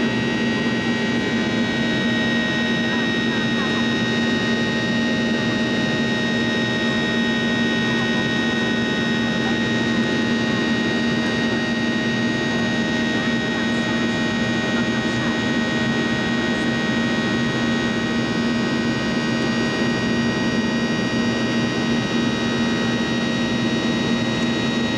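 Boeing 737-800's CFM56-7B1 turbofan engine running at a steady setting, heard from inside the cabin: an even drone with a constant whine and several held tones. There is no spool-up or spool-down.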